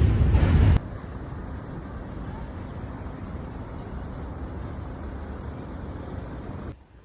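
A subway train's loud rumble ends abruptly under a second in. Steady, quieter road traffic noise follows, cutting off shortly before the end.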